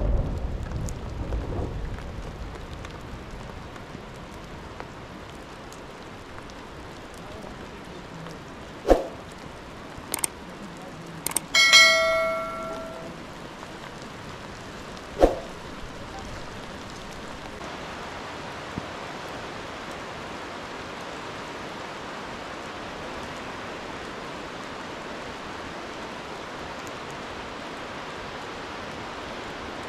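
Steady rain hissing on a mountainside, with a low rumble in the first two seconds and a few sharp knocks. About twelve seconds in, something metal clangs and rings for about a second.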